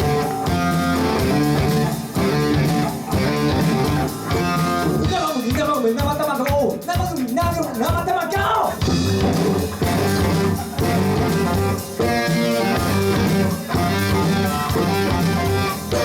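Live rock band playing a song, with guitars over a steady beat. The chords change about every two seconds, and a higher melody line moves over them in the middle.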